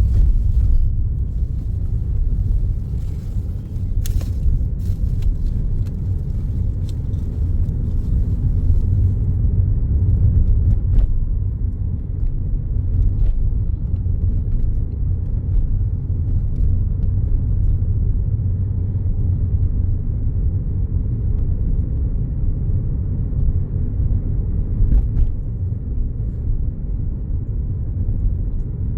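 Car driving along a road: a steady low rumble of engine and tyres, with a few faint clicks in the first several seconds.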